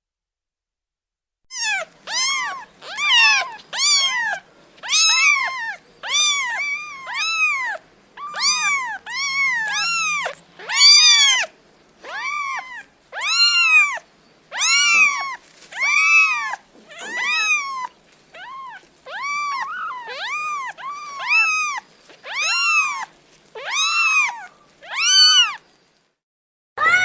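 Domestic cat meowing over and over, about two dozen short, high meows roughly one a second, each rising then falling in pitch; the meowing begins about a second and a half in.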